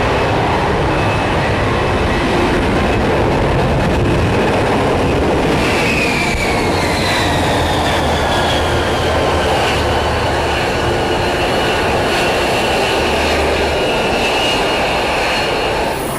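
F-35B fighter jet engine running loud and steady, with a high whine that comes in about five seconds in and falls slowly in pitch.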